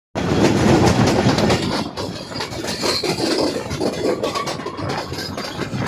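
Diesel-hauled passenger train passing close by, its wheels clattering rapidly over the rails, loudest in the first two seconds and then running on a little quieter.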